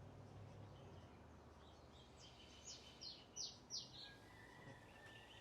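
A bird calling in a quick run of four or five sharp, downward-sweeping chirps about halfway through, followed by a thin, steady whistled note, all faint over a low hum.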